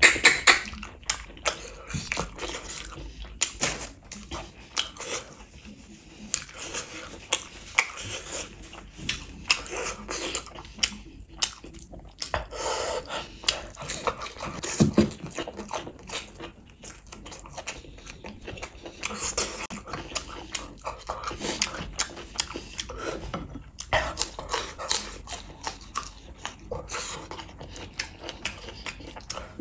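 Close-miked mukbang eating: wet chewing and biting of rice and gravy eaten by hand, a dense run of small clicks and bursts of mouth noise.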